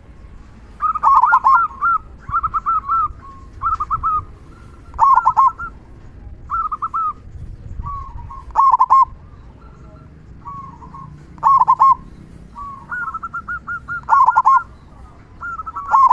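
Zebra dove (perkutut) cooing: short phrases of quick, rolling coos, repeated every second or two. It is a local-strain bird in full song, with the big 'kung' voice that keepers prize.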